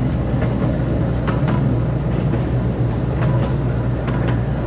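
Small amusement-park ride train running along its track: a steady low rumble with a few sharp clicks.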